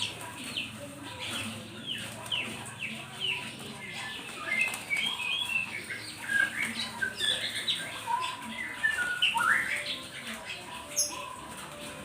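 Several small songbirds chirping, short quick calls and falling notes overlapping, growing busier and louder from about a third of the way in, with one sharp rising call near the end.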